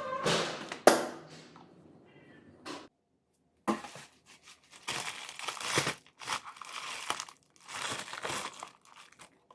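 Crinkling and rustling close to the microphone, in several irregular bursts with a sharp crackle just under a second in. It cuts out completely for about a second near three seconds in, then resumes in repeated bursts.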